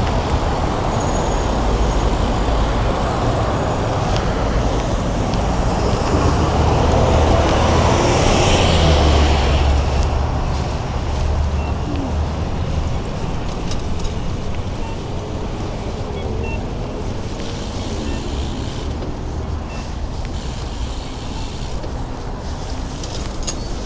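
Road traffic noise heard from a moving bicycle: a steady rumble and rush that swells louder for a few seconds near the middle, then eases off.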